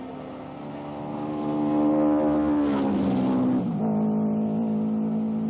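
Racing motorcycle engines running at high revs on track. One bike passes close, getting louder and then dropping in pitch about three and a half seconds in.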